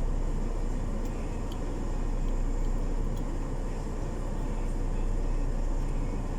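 Steady low rumble of a semi truck's diesel engine running, with no change in pitch and a few faint ticks over it.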